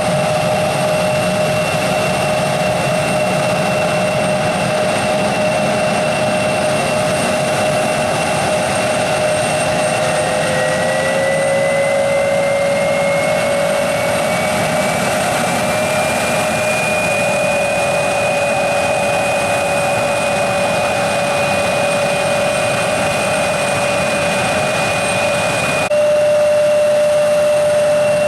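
Regional jet's turbofan engines whining at low power. A second whine rises in pitch over several seconds about a third of the way in, as an engine spools up.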